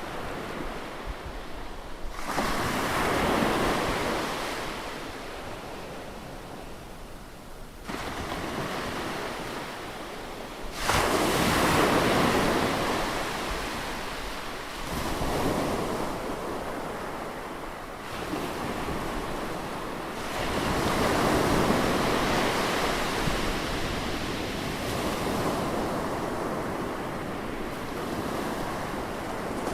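Ocean waves breaking on a beach, one after another. Each comes in as a sudden rushing wash that fades slowly, every few seconds.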